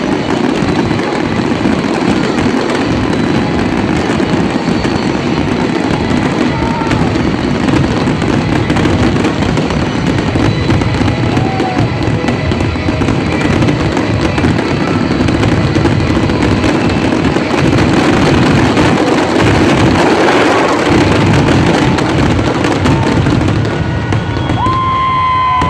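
Fireworks finale: a dense, unbroken barrage of shell bursts and crackling, growing loudest a little past the middle.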